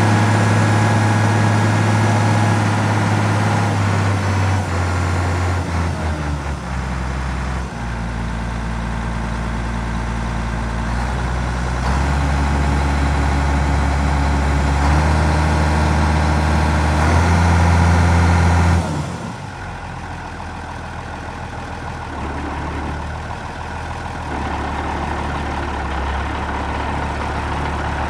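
Case IH 7210 tractor's six-cylinder turbo diesel engine running, its pitch stepping down and up several times. About two-thirds of the way through it drops suddenly to a quieter, lower-pitched idle.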